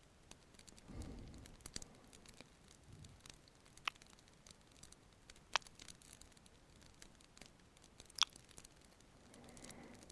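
Quiet close-mic ASMR kissing and wet mouth sounds with a few sharp pops, the loudest near the end, over a faint crackling fireplace.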